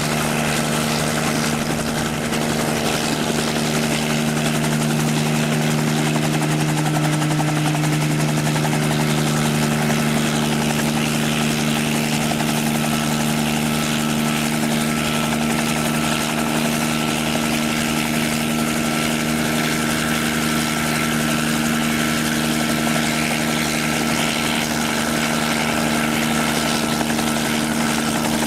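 Helicopter engine and rotor running steadily at close range, with an even, unchanging pitch.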